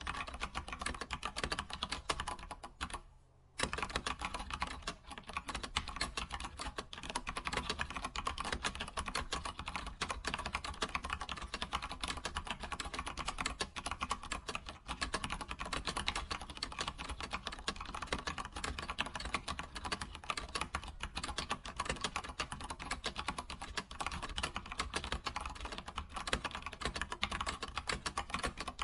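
Computer keyboard typing: rapid, continuous keystrokes with a brief pause about three seconds in.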